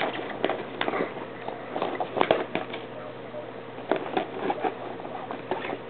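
A bag rustling in irregular short bursts as a cat moves and paws about inside it.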